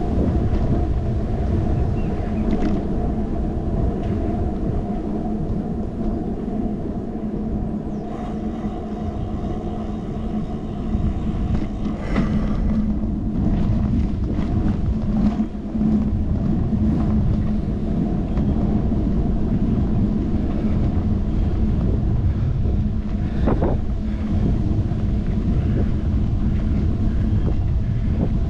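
A bicycle riding along a road, heard through a handlebar-mounted action camera: a steady low rumble of wind and road vibration, with a few short rattles or clicks.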